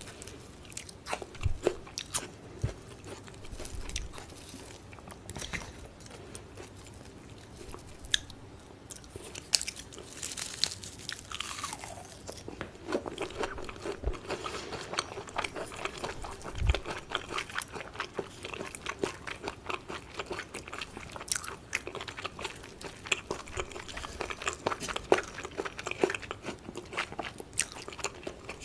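Close-miked chewing of yukhoe, Korean seasoned raw beef, with many short crunching and clicking mouth sounds, sparse at first and coming thick and fast from about halfway through.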